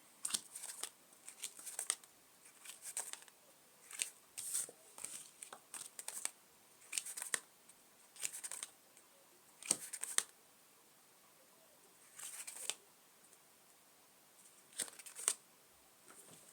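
Playing cards being handled, shuffled and laid out: intermittent short papery rustles and flicks, coming in clusters with pauses of a second or two between them.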